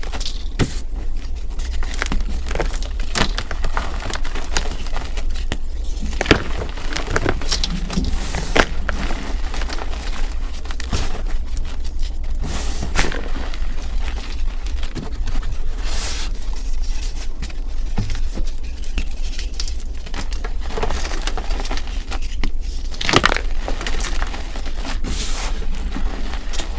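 Pink chalk slabs and yellow chalk sticks being crushed, with irregular crisp cracks and crunches as the dry chalk breaks and crumbles, over a steady low hum.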